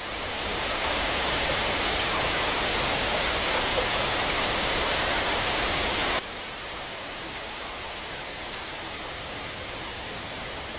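Steady rush of water. About six seconds in it drops suddenly to a quieter, equally steady rush.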